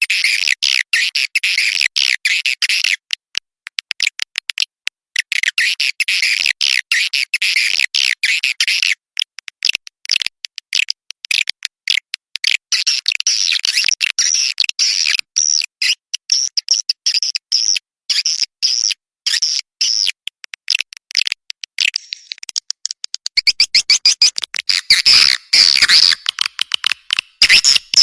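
Bird chirping in fast, dense, high-pitched runs, broken by short pauses, getting louder toward the end.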